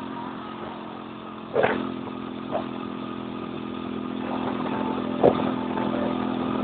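Car engine running steadily at cruising speed, heard from inside the moving car, growing slightly louder toward the end. Short sharp sounds cut in about a second and a half in and again about five seconds in.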